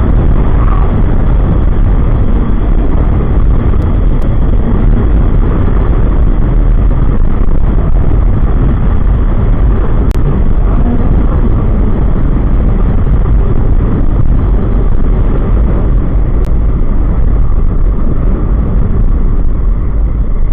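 Loud, steady rush of wind and road noise while riding a motorcycle, the air buffeting the microphone.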